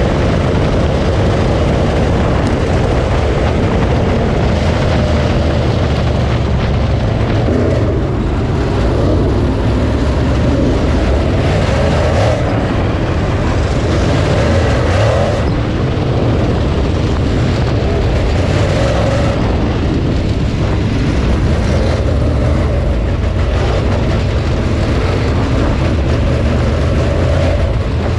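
Dirt late model race car's V8 engine running hard at racing speed, heard loud and close from a camera mounted in the car, its pitch rising and falling with the throttle.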